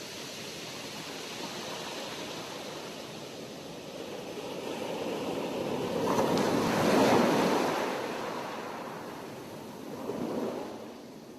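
Sea waves washing ashore: the surf swells to a loud break about seven seconds in and drains away, then a smaller wave washes in near the end.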